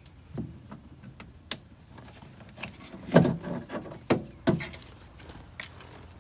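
Hands working inside an open car door: a few sharp clicks, then several loud thumps and knocks against the door's plastic and metal, the loudest about three seconds in.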